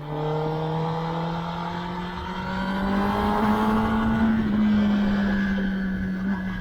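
2021 Kawasaki ZX-10R's inline-four engine and exhaust pulling under throttle on the move. The pitch climbs slowly and steadily for about four seconds, then eases off a little near the end.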